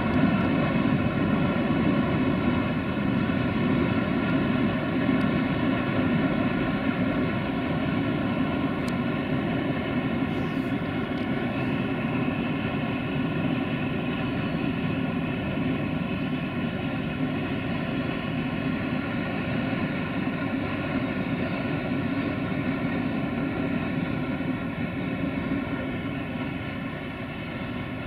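Distant freight train hauled by electric locomotives running past: a steady drone with a humming tone over a low rumble, slowly fading near the end as the train moves away behind the trees.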